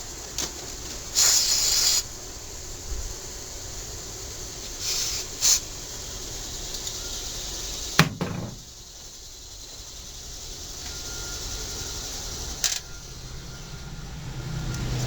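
Aerosol carburetor cleaner sprayed in short hissing bursts onto the carburetor float and bowl: a longer burst about a second in and two short ones around five seconds. A sharp click near the middle, the loudest sound, and another near the end.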